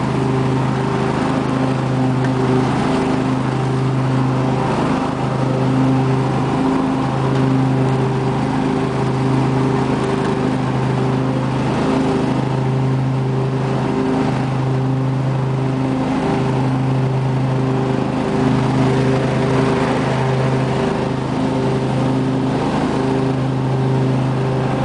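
Briggs & Stratton 24 hp V-twin engine of a 2005 Husqvarna lawn tractor running steadily.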